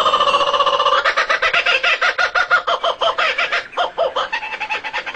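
A bird calling in rapid, evenly spaced pitched notes, about ten a second, with a brief break a little after the middle.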